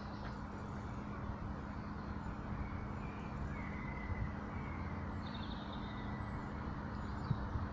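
Outdoor background noise: a steady low hum and rumble, with a few faint high chirps from birds about three and five seconds in.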